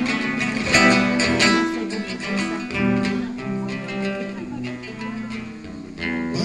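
Acoustic guitar strumming chords in the instrumental introduction of a song, before the vocal comes in.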